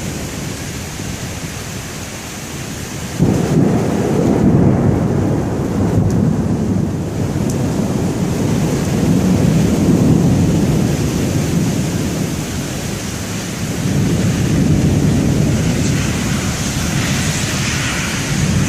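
Severe thunderstorm: steady hiss of heavy wind-driven rain, with a deep rumble that starts suddenly about three seconds in, rolls on in waves and swells again near the end.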